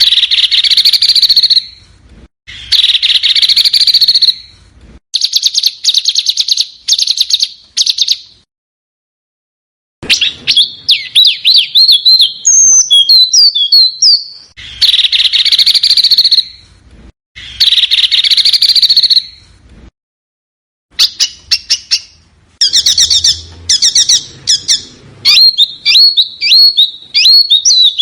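Recorded songs of small songbirds: loud, sharp chirping phrases with harsh buzzy bursts, rapid ticking notes and quick warbling trills, cut into separate phrases with abrupt silent gaps between them, the same phrases coming round again about halfway through. A masteran tutor track of the kind played to cage birds so they copy the song.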